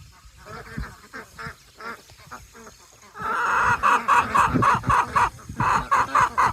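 Farm poultry calling: scattered softer calls, then from about three seconds in a loud run of rapid, repeated squawks, three or four a second.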